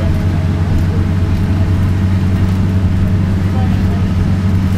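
A steady, loud low droning rumble that holds level throughout.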